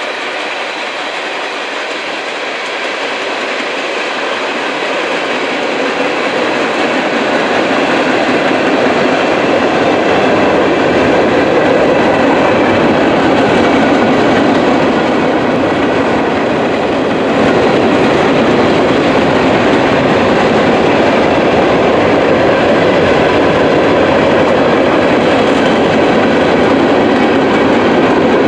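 Norfolk Southern mixed freight train rolling past, its steel wheels running on the rails with some clickety-clack. The rolling noise grows louder over the first several seconds, then holds steady.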